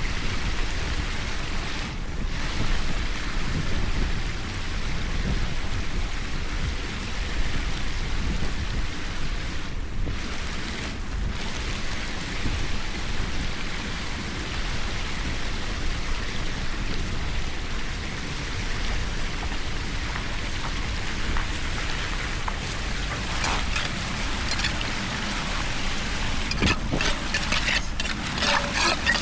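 Steady rushing hiss of water, with a run of short crackles in the last few seconds.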